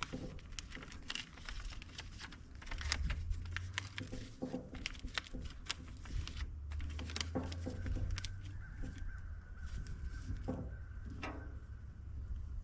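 Wind rumbling on the microphone, with many scattered clicks and knocks and a faint steady high tone for a few seconds past the middle.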